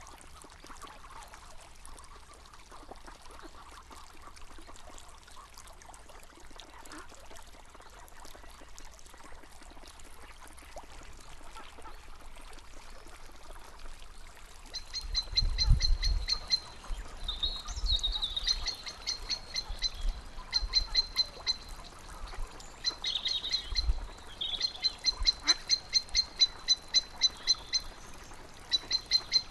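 Faint running water, then from about halfway in an animal's high, rapid ticking calls in repeated short trains of about ten a second, with a few low thumps.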